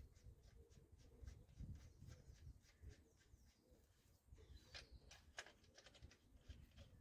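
Near silence with faint, rapid clicking and a few louder clicks about five seconds in.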